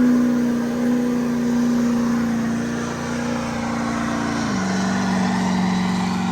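A vehicle engine running steadily with a droning hum that drops to a lower pitch about four and a half seconds in, as the engine speed eases off.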